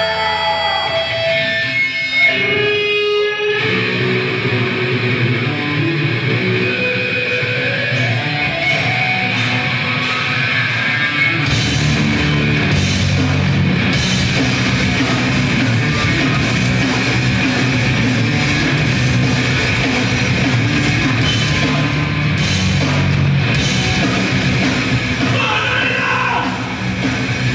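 Live grindcore band playing loud, distorted music. Guitar notes and feedback ring out for the first few seconds, then a guitar figure builds under scattered cymbal hits. About eleven seconds in, the drums and bass come in and the full band plays at full tilt.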